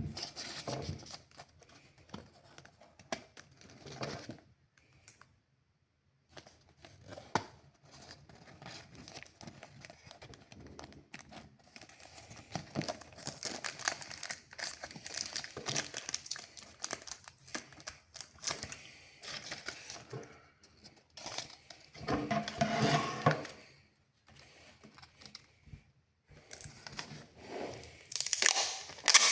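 Paper rustling and crinkling as a sheet is handled, folded and creased, in irregular bursts with short pauses, loudest in a couple of stretches near the end.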